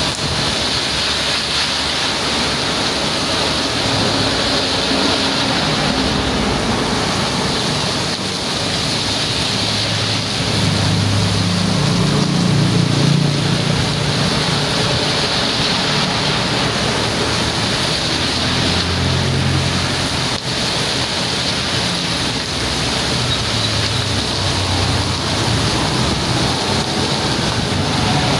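Heavy rain pouring steadily: a dense, even hiss over a low rumble that swells and fades.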